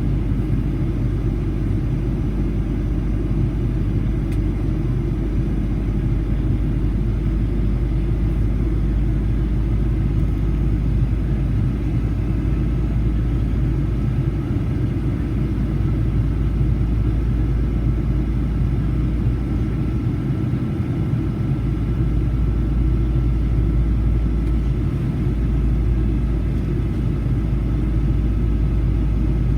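Cabin noise inside a Boeing 737-800: the steady low rumble of its CFM56 engines and the airflow past the fuselage, with a faint steady whine over it in the second half.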